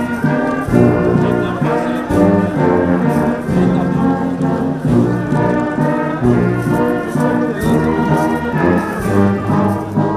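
Brass band music, with trombones and trumpets playing held notes in a steady, continuous melody.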